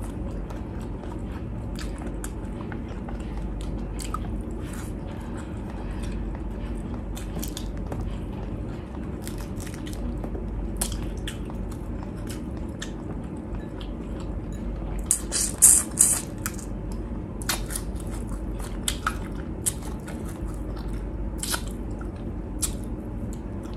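Close-miked chewing and wet mouth clicks of a person eating shrimp and vegetable stew with her hands, over a low steady hum. About fifteen seconds in there is a short cluster of louder crackles.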